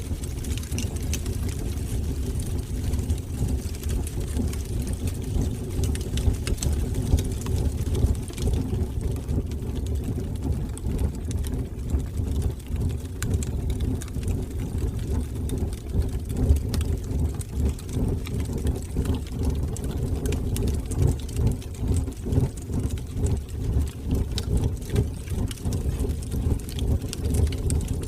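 Wood fire burning in a fireplace: a steady low rumble of flames with scattered crackles and pops throughout.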